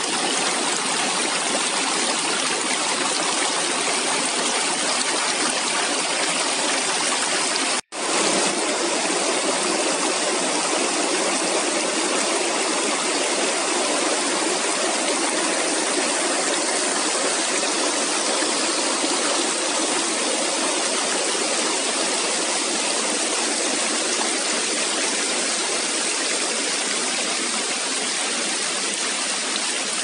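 Rushing water of the Zhane mountain river, a steady dense rush, broken for an instant about eight seconds in.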